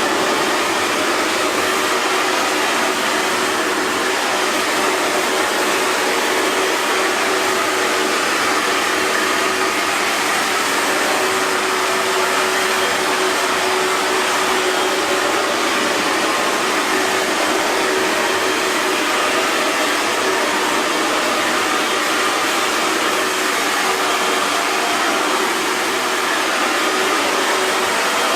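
Electric hair dryer running steadily: an even rush of air with a faint motor hum underneath.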